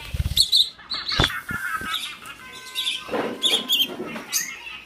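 Pet birds chirping in quick repeated high chirps, with a low thud at the start and a couple of sharp knocks about a second in.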